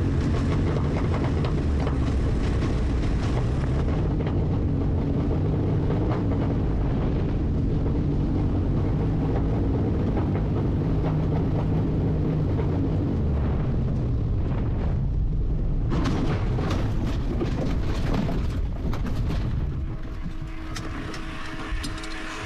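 Helicopter running close by: a steady, heavy rotor and engine rumble. It turns rough and crackly for a few seconds in the second half, then drops in level with a steady hum near the end.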